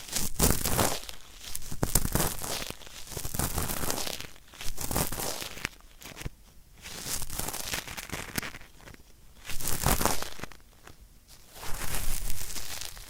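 Ear-cleaning tool scraping and crackling against a microphone's ear in about seven scratchy strokes, a second or two apart, imitating the scraping of dry earwax.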